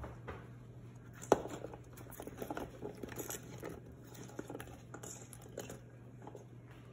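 Food being handled in a slow cooker pot: small irregular wet clicks and rustles, with one sharp knock about a second in.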